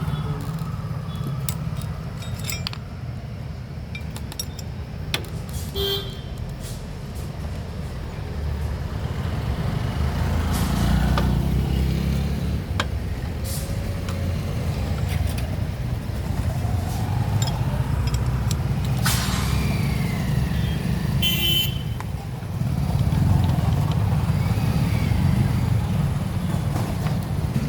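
Steady low rumble of motor vehicle engines that swells and eases, with scattered short metallic clicks. A brief high-pitched tone, like a horn toot, sounds about three-quarters of the way through.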